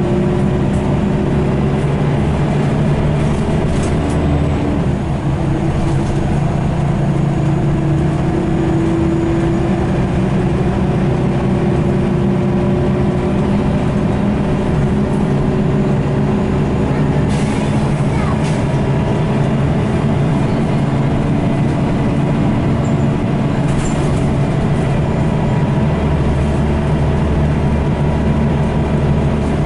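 Scania L94UB single-deck bus under way: its diesel engine and ZF automatic gearbox give a steady drone whose pitch slowly slides down and back up as the bus changes speed. Two brief rattles sound in the second half.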